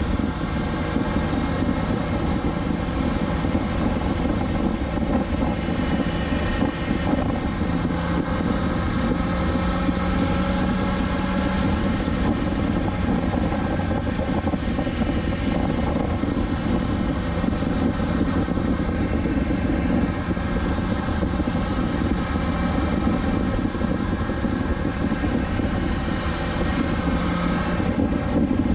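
BMW S1000XR inline-four engine running at a steady cruise, its note drifting slightly up and down in pitch, with wind and road rush on a rider-mounted camera.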